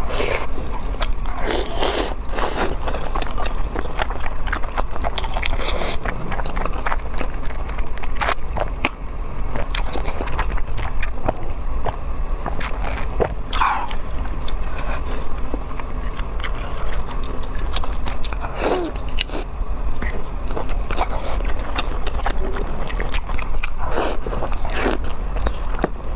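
Close-miked mouth sounds of biting and chewing saucy crayfish tail meat, many short wet smacks and clicks throughout, along with plastic-gloved hands handling lobster in sauce. A steady low hum sits underneath.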